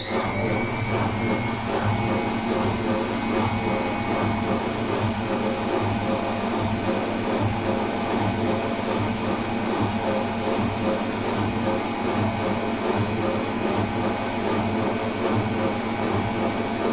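Atlant 50U101 washing machine's drum motor spinning up, with a rising whine in the first second or so, then spinning steadily at speed with a constant high whine and hum: the spin cycle.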